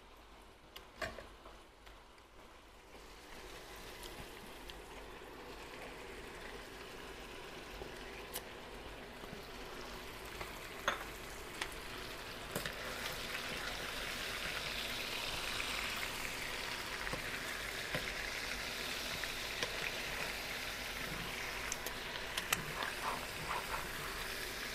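Chicken pieces frying and browning in oil in a frying pan: a steady sizzle that grows gradually louder, with a few scattered small pops. Near the end a spatula starts turning the pieces.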